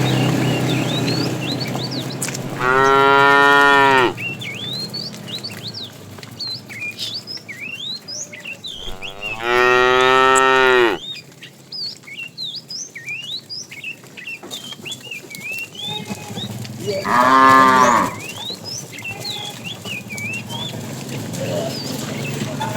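Cattle mooing three times, each a loud, drawn-out call of about one to one and a half seconds, several seconds apart. Short bird chirps run between the calls.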